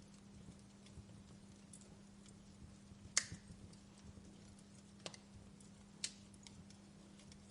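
Fireplace crackling: scattered small ticks and a few sharper pops from burning logs, the loudest about three seconds in, over a faint steady low hum.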